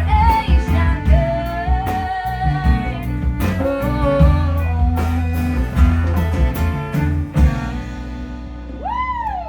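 Live band playing a blues-rock song with a singer, electric guitar and drums, ending on a final hit about seven and a half seconds in, the last chord then ringing out. Near the end, a short rising-and-falling whistle.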